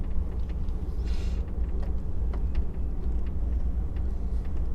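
Diesel engine of an HGV truck idling steadily, a low rumble heard from inside the cab, with a short hiss about a second in.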